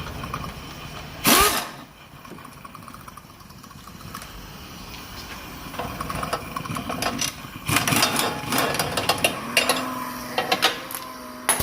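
Pneumatic impact wrench (air gun) working bolts off a gearbox bracket: a short sharp burst early on, then rapid hammering and rattling in repeated bursts through the second half.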